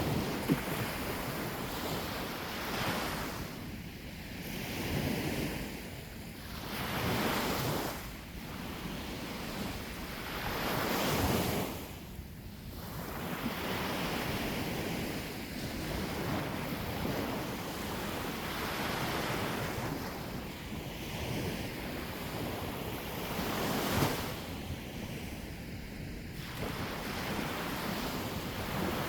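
Sea waves breaking on the shore, the surf swelling and falling back every few seconds, with wind buffeting the microphone.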